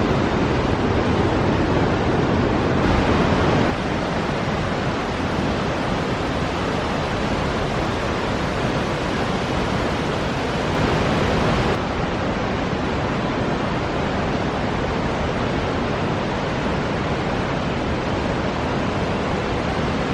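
Steady rushing roar of the Falls of Measach waterfall plunging into Corrieshalloch Gorge, a continuous even noise whose level shifts slightly a couple of times.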